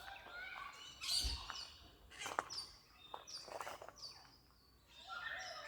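Several small birds chirping, with many short high calls and quick falling notes overlapping one another.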